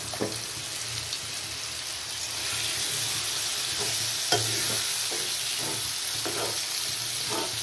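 Yogurt-marinated chicken sizzling in a hot kadai of tomato masala while a steel spoon stirs it. The spoon makes scattered knocks and scrapes against the pan. The sizzle hiss grows louder about two seconds in.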